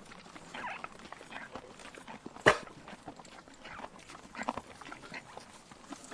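Horse sound effect: irregular knocks and short noisy bursts, with one sharp, much louder knock about two and a half seconds in.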